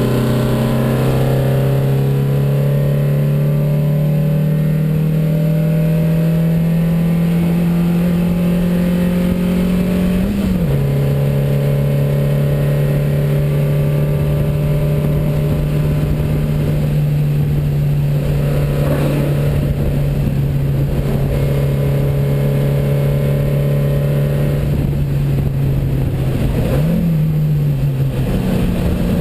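Race-prepared 1972 Porsche 914's 2270cc air-cooled flat-four engine running loud under load, heard from inside the stripped, caged cockpit. Its pitch holds nearly steady and rises slowly, with a quick jump and drop about ten seconds in and again near the end.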